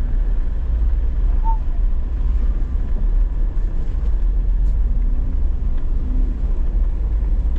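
Truck engine running steadily at low revs with a heavy low rumble while the truck reverses. There is a brief short high chirp about a second and a half in.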